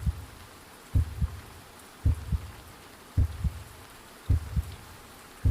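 A slow heartbeat sound effect: low double thumps, lub-dub, repeating evenly a little more than once a second, about five beats in all, over a faint steady hiss.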